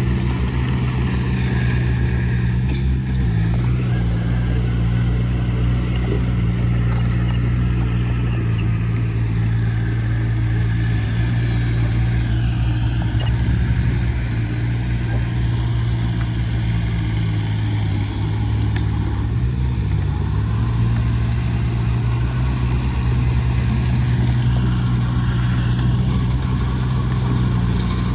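Heavy diesel engine of earthmoving machinery running steadily under load, its pitch dipping briefly a couple of times.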